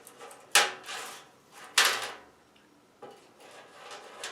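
Sheet-metal heat duct pipe clanking twice as it is handled, each sharp metal hit dying away within about half a second, with fainter rubbing and handling noise between.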